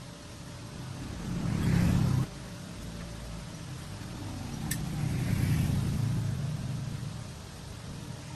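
Truck engine rumbling, swelling louder twice: once about a second and a half in, cut off sharply just after two seconds, and again in the middle before fading.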